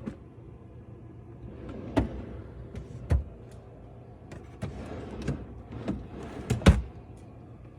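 Items being handled and set down while a refrigerator is organized: a series of irregular knocks and clatters about a second apart over a low steady hum, with the loudest knock near the end.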